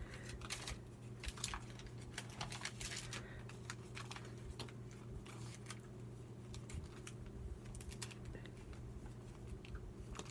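Scattered light taps and paper rustles from small paper cutouts and pictures being handled and laid on a journal page, over a steady low hum.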